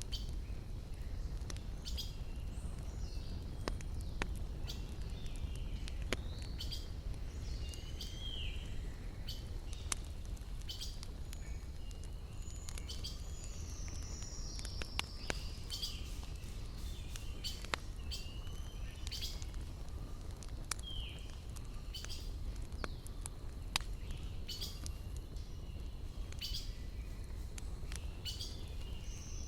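Wood fire crackling with scattered sharp pops over a steady low rumble. Forest birds call throughout, with short falling whistles and chirps.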